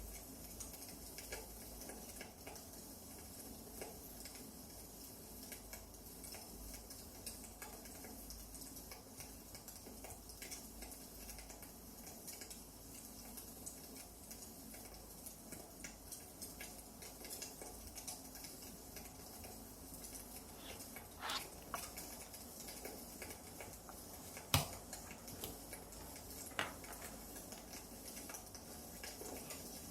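Wood fire crackling: small, irregular crackles over a soft hiss, with one sharper pop near the end.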